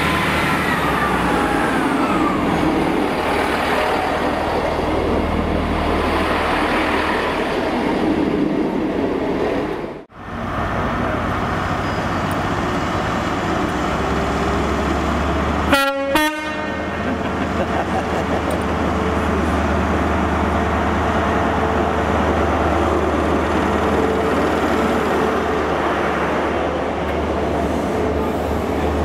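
A Class 158 diesel multiple unit running into the platform, with a falling whine as it slows. After a break, a Class 43 HST power car approaches and gives two short blasts on its horn about halfway through. It then runs past with a steady diesel drone and the rumble of its coaches.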